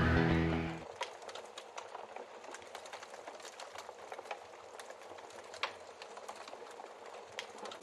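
Wood fire crackling with irregular small snaps and pops, one sharper pop about halfway through. Intro music fades out in the first second.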